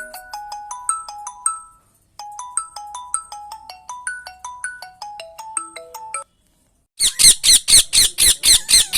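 A phone ringtone: a quick melody of clear, marimba-like notes, played through twice with a short break. Near the end it gives way to about two seconds of loud, shrill calls repeated about four times a second.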